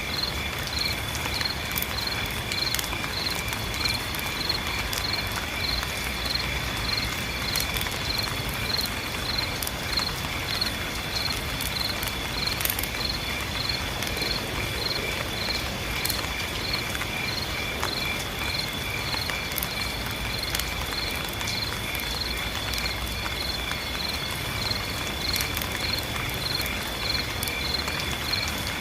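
Rain falling steadily, with scattered sharp drop ticks over an even hiss, and a chorus of night insects chirping over it: a continuous high trill and high chirps pulsing about twice a second.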